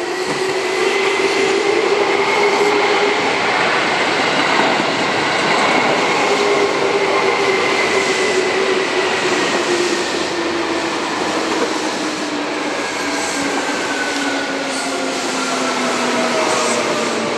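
Seibu 2000-series electric commuter train running into a station and slowing alongside the platform: a steady rumble of wheels on rail with a whine that falls slowly in pitch as the train brakes.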